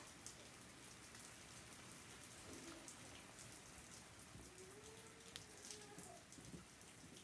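Faint, steady rain falling, a soft patter with scattered small drop ticks.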